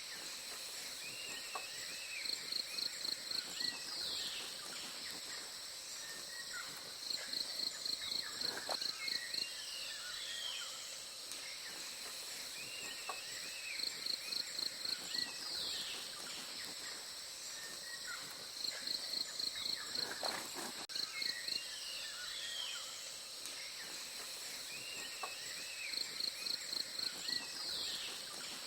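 Forest ambience: a steady high-pitched insect drone. Over it, a run of about seven quick high pulsed notes repeats roughly every five seconds, each run ending in a short falling note, with scattered bird chirps between.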